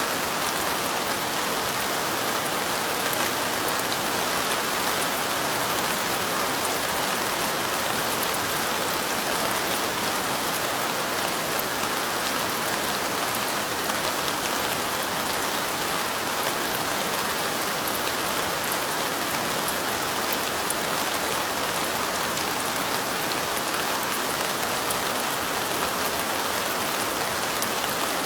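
Steady light rain falling, an even hiss of rain with many fine ticks of individual drops throughout.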